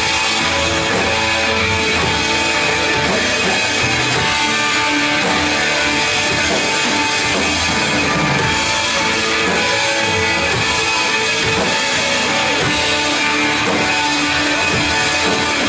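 Live worship band playing an instrumental rock song with electric guitar and drum kit, loud and steady.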